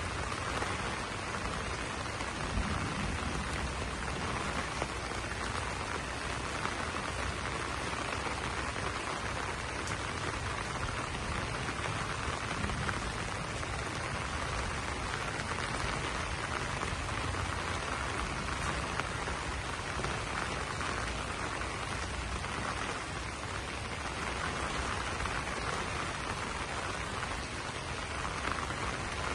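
Steady rain falling on banana leaves.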